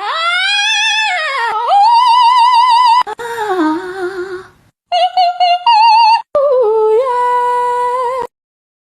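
A high, wavering voice singing or howling in several phrases: gliding notes, then held notes with a fast regular wobble, stopping abruptly about eight seconds in.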